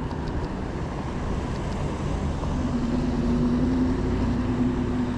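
Traffic on a wet city street in heavy rain: a steady wash of rain and road noise, with a vehicle's steady engine hum that comes in about two and a half seconds in.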